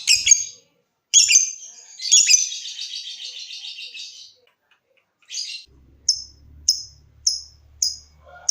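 Lovebird calling: a couple of harsh chirps, then a rapid chattering trill of about two seconds, then a run of short, sharp, high chirps about every half second.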